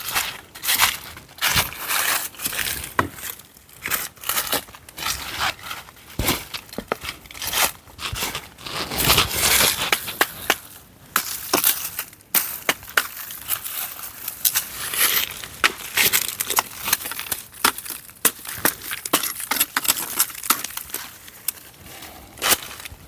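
Dry leaf litter and twigs crunching and crackling in a run of irregular crunches, with a longer, louder stretch about nine seconds in.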